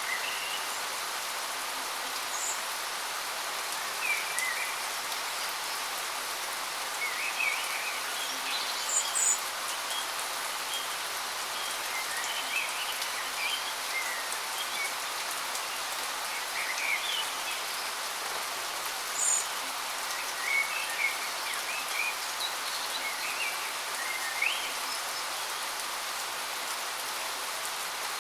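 Steady rush of a waterfall, with small birds chirping now and then over it in short high calls.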